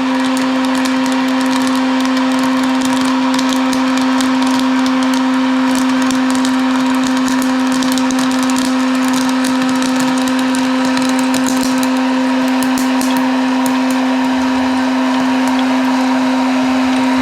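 Electric popcorn maker running with a steady motor hum while corn kernels pop in quick irregular cracks, many at first and thinning out near the end as the last kernels pop.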